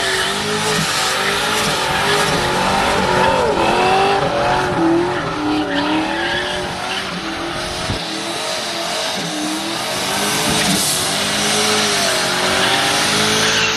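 Ford Mustang doing a burnout: tires squealing in a wavering, sliding pitch over a hard-revving engine, the engine's low rumble easing off briefly a little past the middle.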